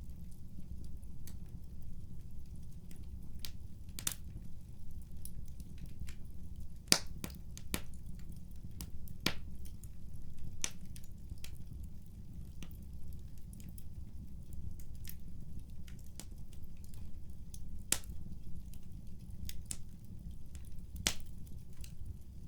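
Wood fire crackling: irregular sharp pops and snaps over a steady low rumble, with one louder pop about seven seconds in.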